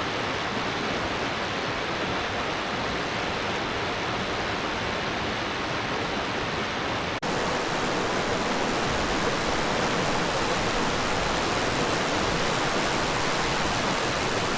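Steady rushing water, an even hiss-like roar with no change, broken only by a brief edit about halfway through.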